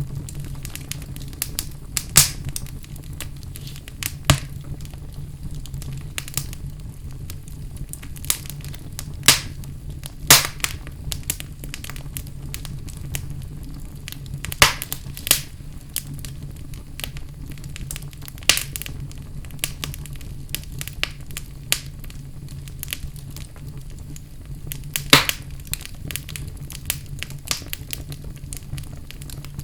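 Fire burning in a fireplace, crackling: a steady low rumble with frequent small crackles and several louder sharp pops scattered through.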